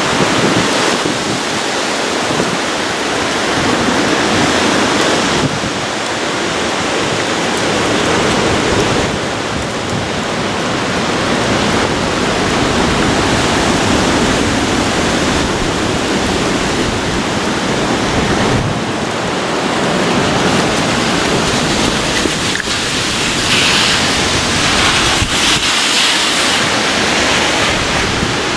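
Hurricane-force wind roaring in gusts that swell and ease every few seconds, with wind buffeting the microphone and rain mixed in.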